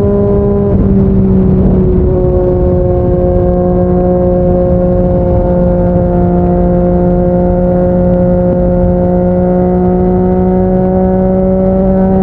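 Yamaha MT-09's three-cylinder engine through a Yoshimura R55 slip-on exhaust, running at steady expressway speed. The note changes briefly about a second in, then holds a steady drone over wind rush.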